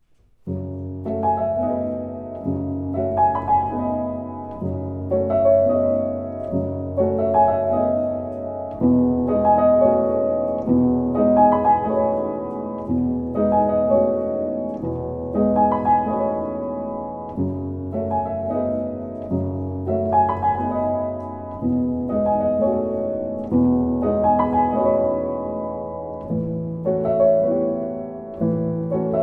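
Slow instrumental music led by piano: sustained chords change about every two seconds over held low bass notes. It begins about half a second in.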